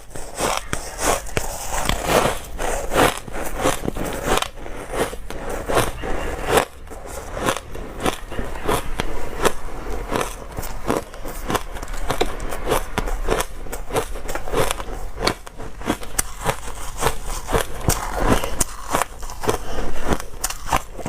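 Dry, crunchy ice being bitten and chewed: a fast, irregular run of sharp crackling crunches, several a second.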